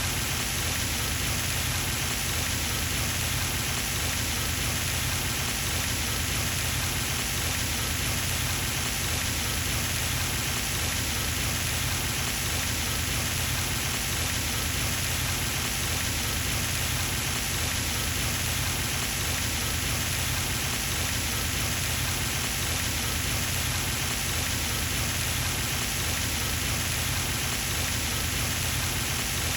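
Pond fountain's spray falling back onto the water: a steady, unbroken splashing hiss like rain on a surface.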